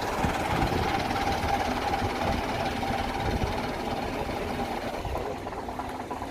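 A vintage bus's diesel engine running with a steady drone and rumble, getting a little quieter near the end.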